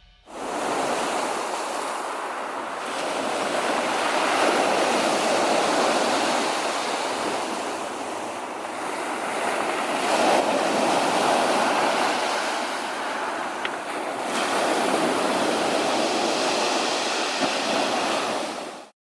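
Sea surf: waves washing on a shore as a steady rush that swells and eases every few seconds. It starts abruptly and cuts off just before the end.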